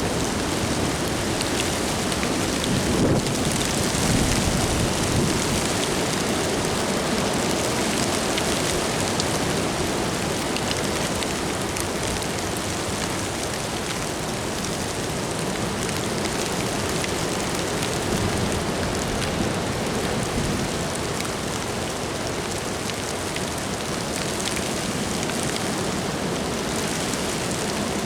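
Steady rain falling in strong gusting wind, a little louder about three to five seconds in.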